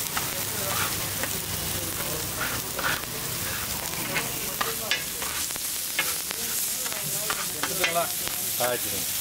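Chopped meat frying on a flat street-food griddle (tawa): a steady sizzle, with a metal spatula scraping and clinking against the griddle now and then, more often in the second half.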